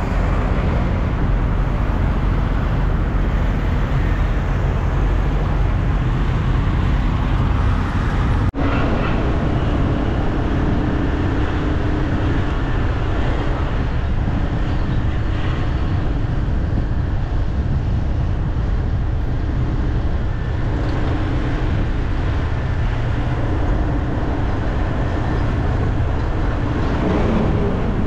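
Steady city street traffic noise: a continuous wash of passing cars and motorbikes, with a brief break about eight and a half seconds in where two recordings are joined.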